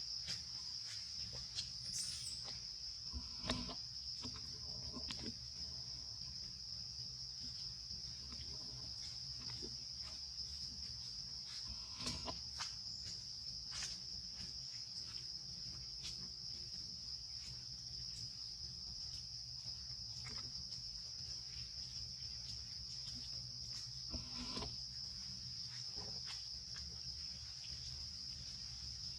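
Insects trilling in one steady, high-pitched drone, with a few faint clicks scattered through it.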